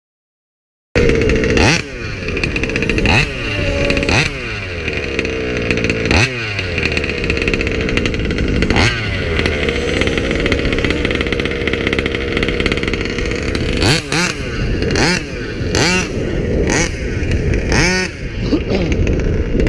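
38cc two-stroke engine with an Olimat tuned pipe in a King Motors Baja 5b RC car, starting about a second in and running at a steady idle, blipped about a dozen times into short revs that rise and fall, the blips coming closer together in the last few seconds.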